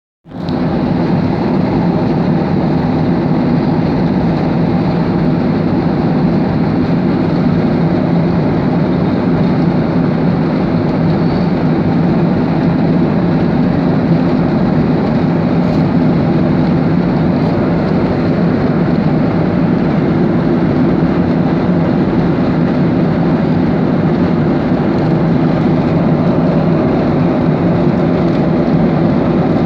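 Airplane noise: a loud, steady drone with no rise or fall in pitch or level.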